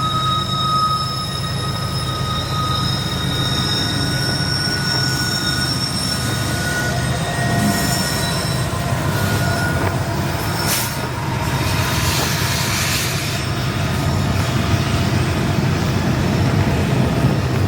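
Slow-moving intermodal freight train rolling past, a steady low rumble of railcars with high steady wheel squeal that fades out about ten seconds in.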